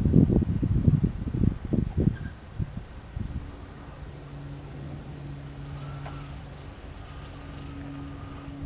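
Crickets or other insects calling steadily: a high, even trill with a fainter pulsing call underneath. Irregular low buffeting in the first couple of seconds, like wind on the microphone, gives way about three seconds in to a low steady hum.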